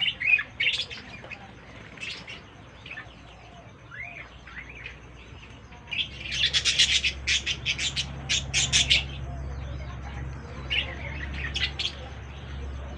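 Budgerigars chirping in short, high, scattered calls, with a fast run of chirps about halfway through. A low steady hum comes in at about the same point.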